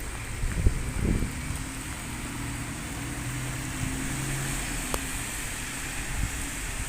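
Alexander Dennis Enviro200 MMC single-deck diesel bus pulling away, its engine humming steadily, with a couple of low thumps of wind on the microphone about a second in and a single click near the end.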